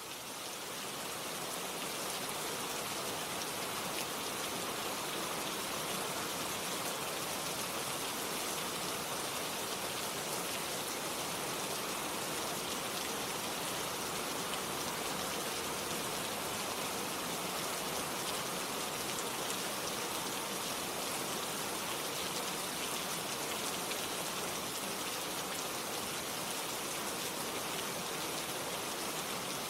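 Steady rain: a dense, even hiss of falling rain and drops hitting a surface, fading in over the first couple of seconds and then holding steady.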